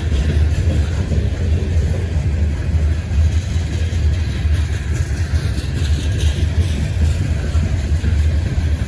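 Steady low vehicle rumble that holds an even level throughout.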